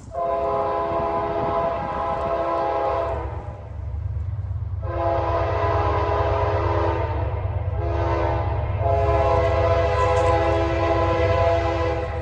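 Locomotive air horn sounding the grade-crossing signal: two long blasts, a short one, then a long one, each a chord of several tones. Under it the low rumble of the approaching train grows louder.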